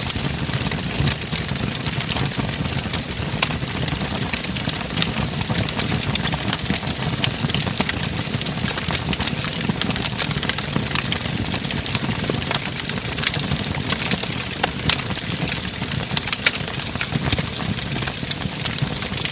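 Wood fire burning in a fireplace: frequent sharp, irregular crackles and pops over a steady low roar of the flames.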